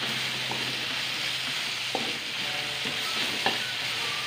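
Ground spice paste with lemongrass and leaves sizzling steadily in hot oil in a wok, stirred with a metal spatula that knocks sharply against the pan a couple of times. The paste is being sautéed until fragrant.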